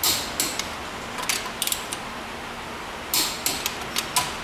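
A string of short, sharp clicks and light rattles, irregular and in small clusters, with the thickest cluster about three seconds in, over a steady low background hum.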